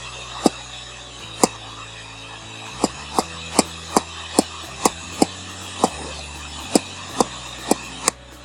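Loud, sharp clicks, about fourteen of them at an uneven pace and bunched more closely in the middle, over a steady hiss and low hum. The clicks are typical of a computer mouse button clicked over and over while painting on screen.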